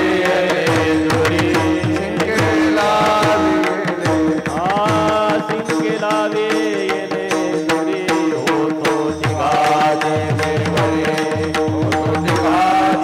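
Kirtan devotional music: a steady drone under a gliding melody line, with fast hand-drum strokes of tabla type.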